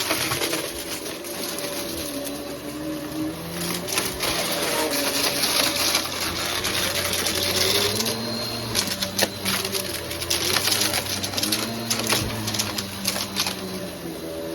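Vacuum cleaner running, its motor pitch wavering slightly as it works, with scattered clicks and crackles over a steady hiss.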